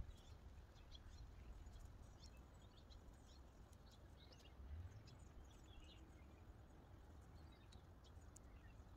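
Near silence outdoors: faint, scattered bird chirps over a low background rumble.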